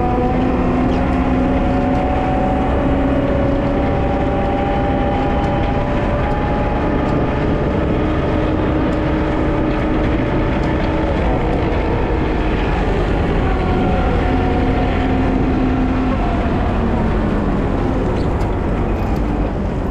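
Wheel loader's diesel engine running steadily under load while plowing snow, its pitch drifting slightly up and down.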